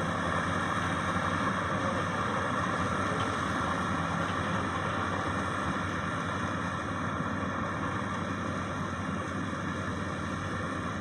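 Maxxi Bimo 102 X Top combine harvester running steadily, a continuous engine and machinery noise.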